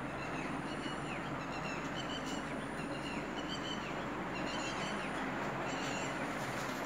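Small birds chirping, short high calls repeating every second or so, over a steady rumbling background noise.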